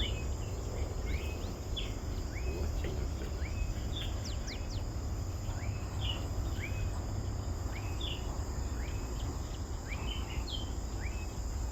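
Forest ambience: a steady high insect drone under many short chirping calls, a few a second, plausibly from birds, over a low steady rumble.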